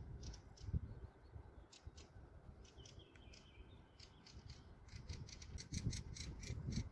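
Small birds chirping faintly in quick runs of short, high notes, with one thin whistled note held briefly about three seconds in. A few low thumps come near the end.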